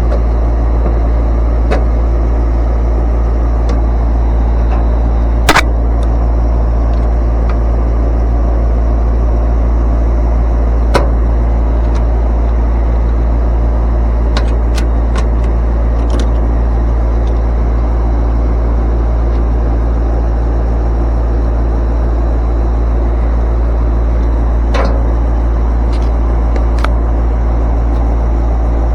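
Air-conditioning condenser fan motor running with a steady low hum, the compressor not running, a sign the unit is failing to start its compressor. A few sharp clicks sound over it.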